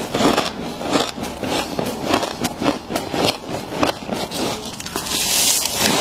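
Humidifier frost being scraped and bitten: a run of crisp, scratchy crunches, several a second, with a longer scrape near the end.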